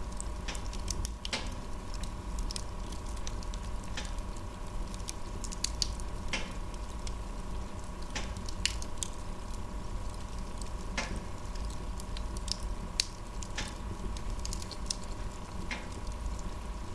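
Wood fire crackling: irregular sharp pops and snaps, several a few seconds apart, over a steady low rumble.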